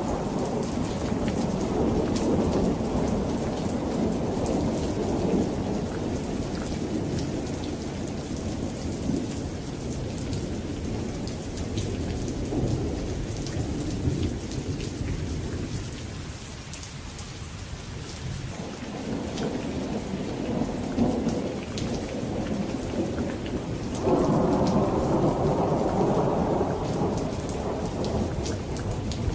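Thunderstorm: steady rain pattering, with thunder rumbling low and rolling. The rumble fades to a lull partway through, then a new peal of thunder breaks in suddenly about three quarters of the way in.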